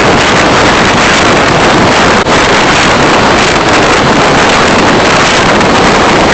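Steady, loud rush of road and wind noise from a car being driven, picked up by a dashcam's microphone, with a brief dip about two seconds in.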